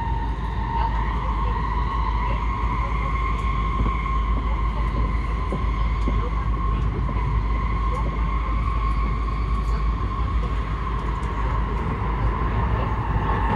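Steady running noise inside a moving N700S Shinkansen car: a low rumble with a high whine held nearly level in pitch.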